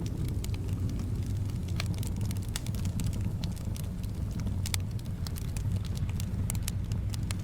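Wood fire crackling, with frequent irregular sharp pops and snaps, over a steady low rumble of wind.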